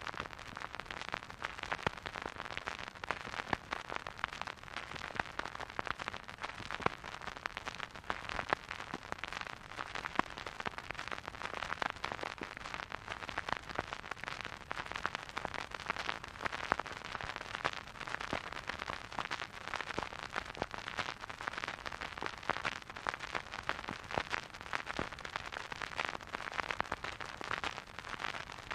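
Vinyl record player surface noise: a steady hiss with dense, irregular crackles and pops from the stylus riding the groove, with no music.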